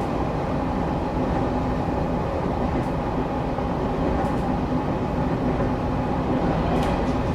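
Steady rumble and hum inside a Shinetsu Line train carriage, with a few faint ticks scattered through it.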